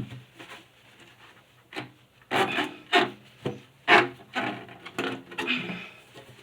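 Dry cloth rubbed back and forth over a refrigerator's inside surface, polishing it dry after washing, in quick strokes about two a second from about two seconds in. A short knock at the start.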